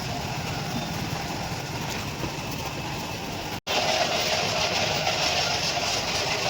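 Diesel engine of a New Holland 45 HP tractor running steadily. The sound cuts out for an instant a little over three and a half seconds in, then comes back louder and brighter.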